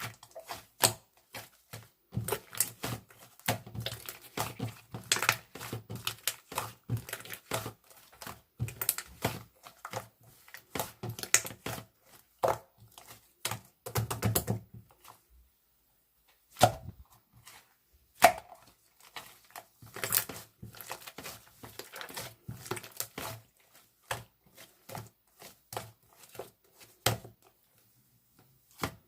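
Hands handling small objects on a hard surface: a dense, irregular run of clicks and taps mixed with rustling, with a brief pause about halfway through.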